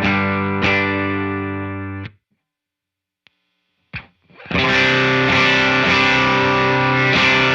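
Electric guitar through a JHS Kilt overdrive pedal: strummed chords ring and cut off abruptly about two seconds in. After a short silence and a brief stab, a denser, more driven chord comes in about four and a half seconds in and sustains.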